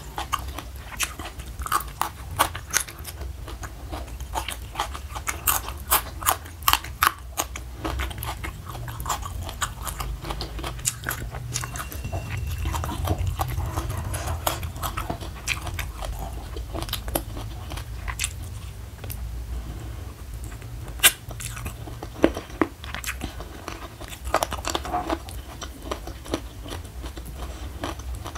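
Close-miked chewing of chicken feet: a dense run of sharp, wet clicks and crunches, with one louder crack about two-thirds of the way through, over a steady low hum.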